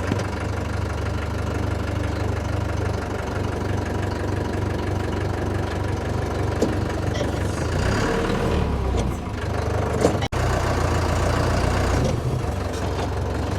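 Tractor engine running steadily with a low, even rumble. It cuts out for an instant about ten seconds in, then carries on unchanged.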